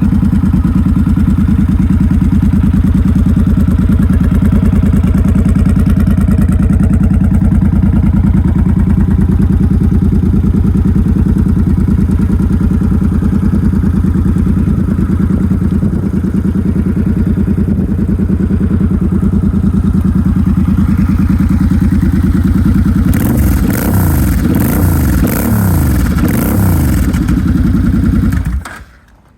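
Suzuki VZ800 Intruder's V-twin engine idling steadily through its Cobra aftermarket exhaust. Near the end it is revved several times, then it is switched off and cuts out suddenly.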